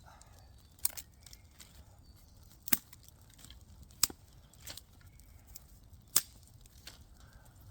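Four sharp knocks or snaps, irregularly spaced, with fainter ticks and handling noise between them.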